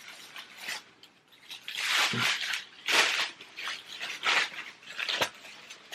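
Packaging being torn and rustled open by hand: a few short, irregular crackling rips and rustles.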